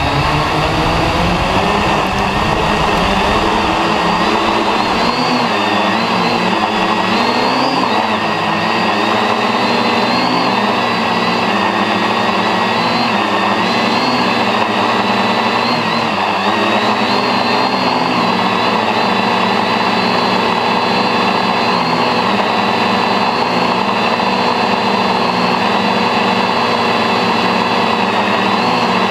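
Stainless-steel octocopter's eight motors and propellers running hard: a loud, steady multi-toned drone and whine, rising in pitch at the start and then holding with small wavering shifts in pitch as the rotors adjust. A deep rumble underneath drops away about five seconds in.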